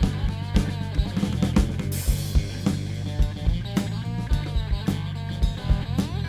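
Rock band playing an instrumental passage between vocal lines: a lead guitar bending its notes over a steady drum beat and bass.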